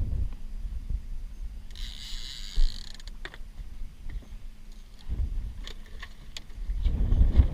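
Fishing reel whirring and clicking while a hooked fish is fought, with wind rumbling on the microphone. There is one sharp knock a couple of seconds in.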